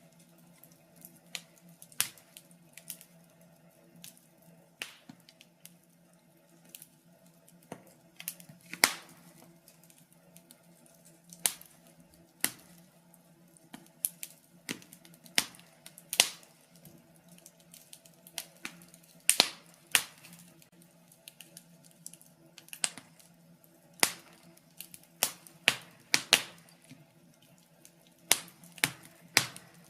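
Wood fire crackling in a fireplace: irregular sharp snaps and pops, some single and some in quick clusters, over a faint steady low hum.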